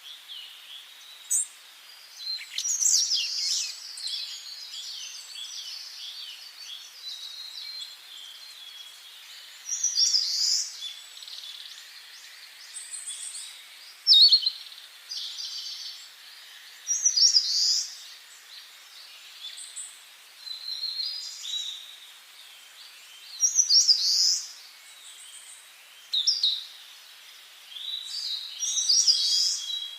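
Songbirds singing in short, bright phrases every few seconds over a faint steady hiss.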